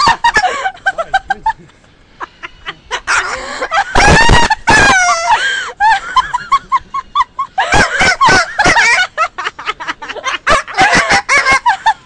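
Talking pet bird squawking and screeching in bursts of varied calls, the loudest a long gliding screech from about four to six seconds in, followed by a run of short repeated notes.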